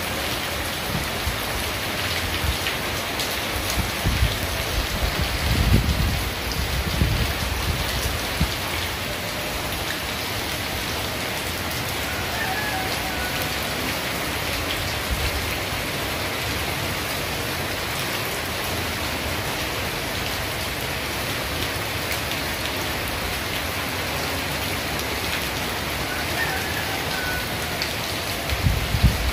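Heavy rain falling steadily in a downpour, with a low rumble swelling from about four to eight seconds in and again near the end.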